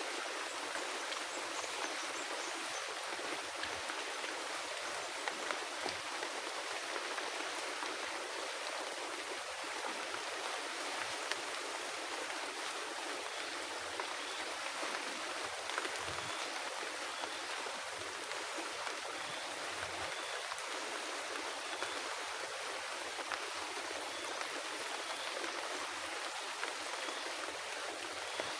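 Heavy rain pouring steadily on the forest, an even unbroken hiss with a few faint scattered taps.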